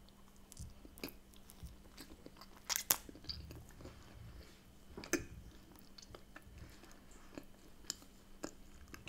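A person chewing a mouthful of bagel with smoked salmon, cream cheese, tomato, avocado and onion: quiet, scattered mouth clicks and smacks, the sharpest about three seconds in and again about five seconds in.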